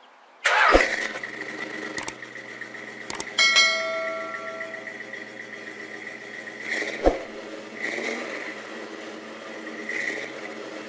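Dodge Super Bee V8 starting with a loud burst about half a second in, then running at a fast idle, with a sharp crack about seven seconds in and the revs swelling briefly twice more. A couple of clicks and a short bell-like chime sound over it early on.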